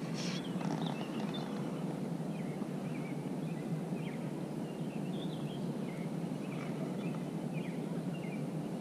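Small birds chirping in many short, scattered calls over a steady low background rush.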